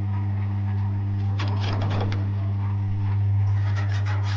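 A steady low hum with a burst of clattering knocks about a second and a half in, and a run of quick taps and knocks near the end.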